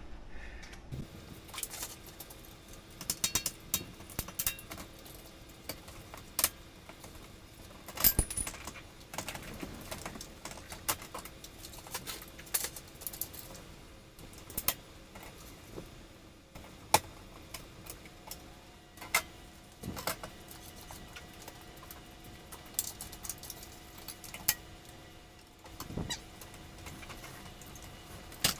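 Scattered metallic clicks, clinks and knocks of hand tools and small parts being handled during hands-on repair work, irregular and widely spaced. A faint steady hum runs underneath.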